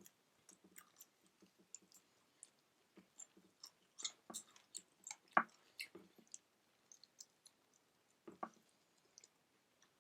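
Close-up chewing of food: soft wet mouth clicks and smacks, with a few louder sharp clicks.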